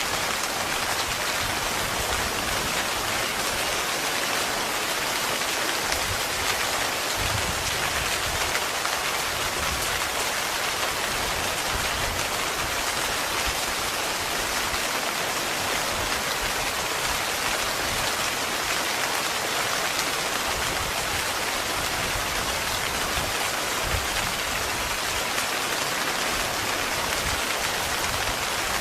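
Heavy rain falling steadily on a tent, a dense even patter with no break.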